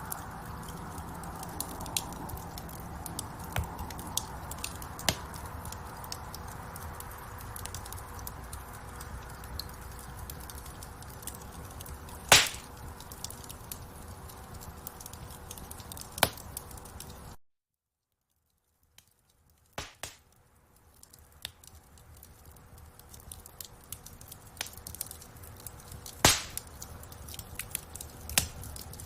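Wood fire crackling in a fireplace: a steady hiss of flames with frequent small snaps and a few loud pops. Just past the middle the sound cuts out to silence for about two seconds, then fades back in.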